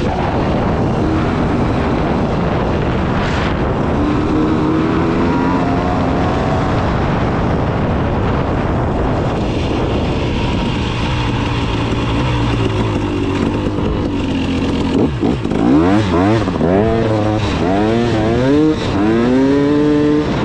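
KTM 300 two-stroke dirt bike engine running under way over a steady rush of noise. The revs climb and drop a few times early on, then rise and fall repeatedly over the last five seconds.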